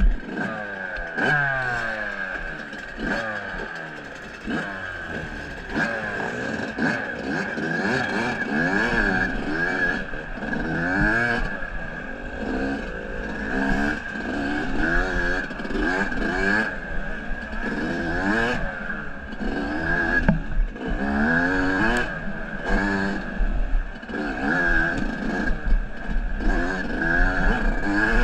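Off-road vehicle engine, most like a trail motorcycle's, revving up and down over and over as it rides, with scattered clatter and knocks.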